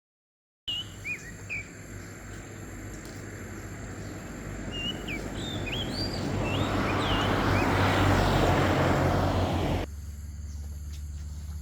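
Birds chirping in short swooping calls over a steady rushing noise that swells for several seconds, then cuts off suddenly near the end, leaving a quieter low hum.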